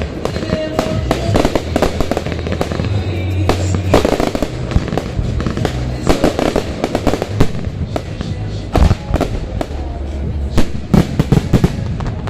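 Fireworks display: a rapid, irregular series of shell bursts and crackling reports, with a cluster of loud bangs near the end, over music with a steady bass line.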